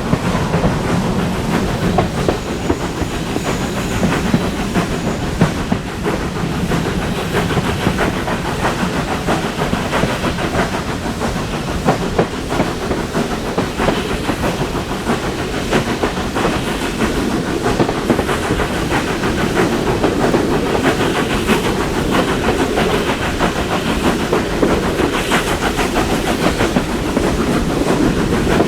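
Heritage passenger train running along the line behind a Caledonian Railway 0-4-4T steam tank engine: a steady rumble with the wheels clicking over rail joints.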